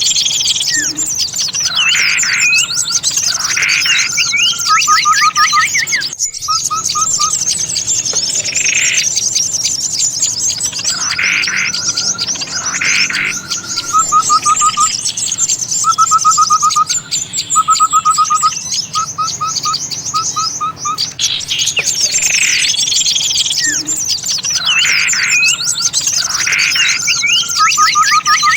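Bird-lure recording for small birds: a dense chorus of many small birds chirping and twittering, with louder rising calls and short trilled phrases recurring in the same pattern every ten seconds or so, as a looped mix.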